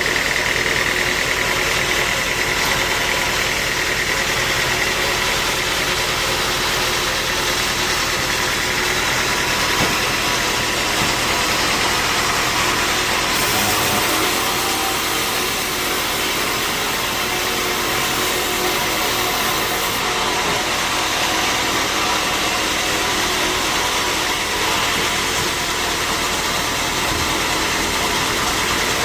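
Sawmill machinery running steadily: a continuous mechanical noise with a high whine that fades in the first few seconds.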